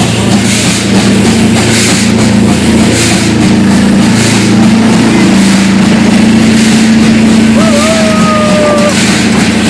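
W-class steam locomotive working hard uphill unaided in heavy rain, its exhaust beating steadily under a low rumble, with a short steady whistle-like tone near the end.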